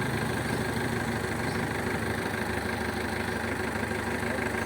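Engine idling steadily, an even, unchanging hum.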